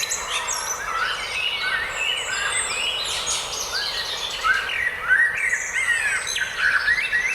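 Several songbirds chirping and singing at once, many short quick whistles and trills overlapping, over a faint steady hiss of forest background.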